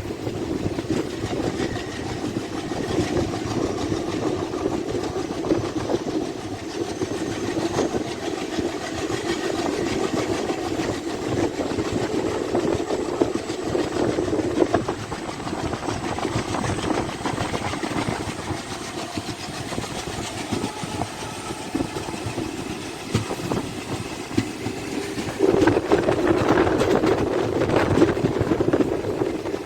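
Passenger train running along the line, a steady rumble of wheels and running gear that swells louder for a few seconds near the end.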